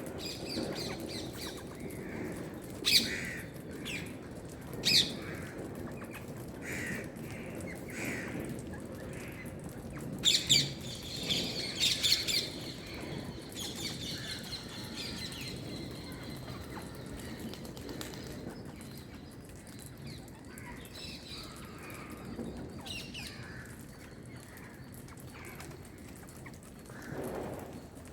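Rose-ringed parakeet giving short shrill calls: single calls about three and five seconds in, a quick pair near ten seconds and a few more just after, then softer chirps over a steady low background noise.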